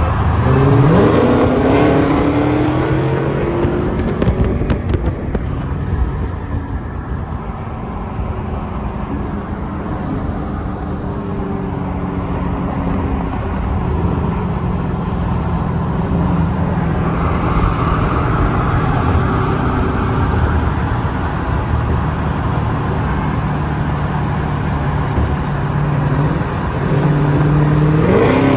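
Car engine driving along: the revs rise as it accelerates about a second in, settle into a steady drone while cruising, then climb again in another acceleration near the end.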